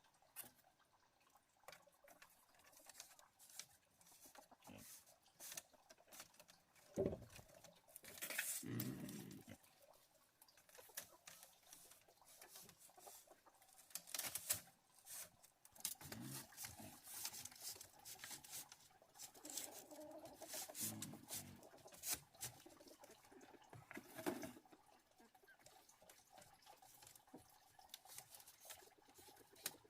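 Faint, scattered clicks, taps and a few soft thumps, like handling noise, with a louder knock about seven seconds in.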